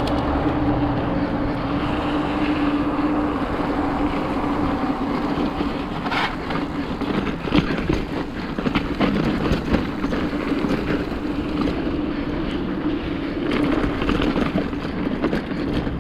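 Mountain bike descending a dirt trail: a steady rolling rush of tyres on the ground, then from about six seconds in a run of sharp clacks and knocks as the bike rattles over rough ground.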